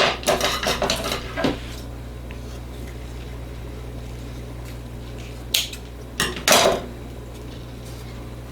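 A utensil scraping and clinking against a peanut butter jar as peanut butter is scooped out for spreading, in a flurry of short knocks at the start and two more bursts later on.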